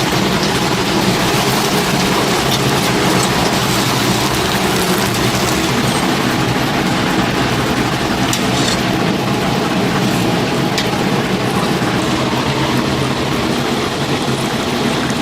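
Chicken deep-frying in hot oil: a steady, dense sizzle with scattered small crackles.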